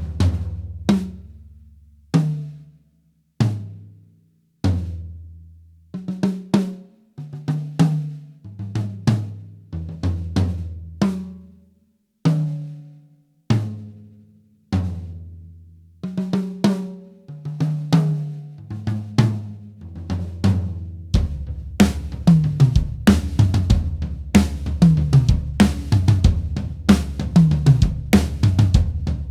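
Sonor SQ1 toms struck one at a time and in short fills, each hit ringing out and dying away. About 21 seconds in, a full drum-kit groove with bass drum, snare and cymbals takes over.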